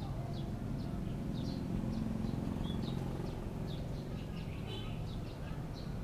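Small birds chirping in quick, short high notes, several a second, over a steady low background rumble.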